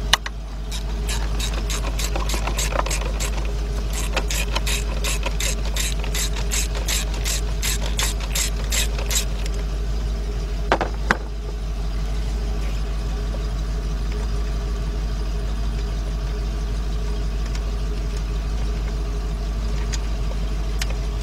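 Socket ratchet clicking in quick even strokes, about four clicks a second for several seconds, as a 10 mm bolt is backed out; a couple of knocks about eleven seconds in, over a steady low hum.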